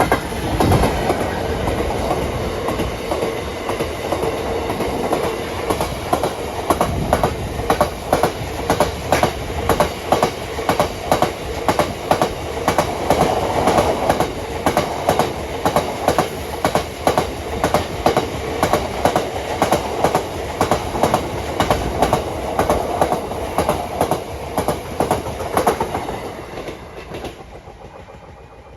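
Freight train passing close by, its wagon wheels clacking over the rail joints in a steady, rhythmic run. The sound dies away about two seconds before the end.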